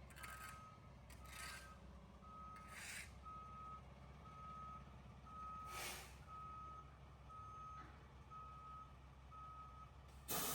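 Vehicle's reversing alarm beeping steadily, one high tone about once a second, with a few brief swishes of noise between the beeps. A louder rush of noise starts near the end.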